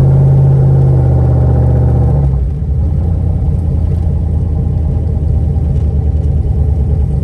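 Turbocharged LS V8 engine running steadily, then dropping to a lower, rougher, pulsing note a little over two seconds in. The owners fear the engine has a rod knock.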